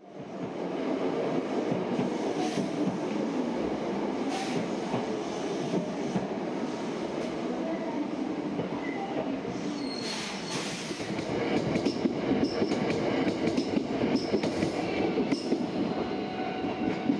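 Train running along rails, with a steady rumble and wheel clicks, and high wheel squeals from about ten seconds in.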